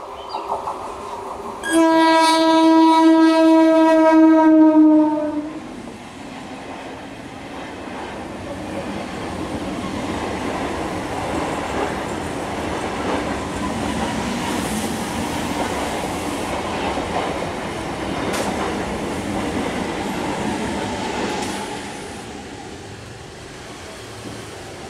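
Electric multiple-unit (EMU) local train sounding its horn in one long blast of about four seconds, near the start. The train then runs past with a steady rumble and wheel clatter for about fifteen seconds before the sound fades.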